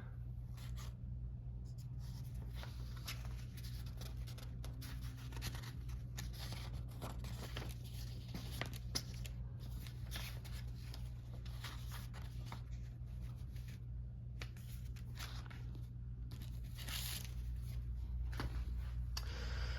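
Faint rustling and crinkling of paper being handled, over a steady low hum.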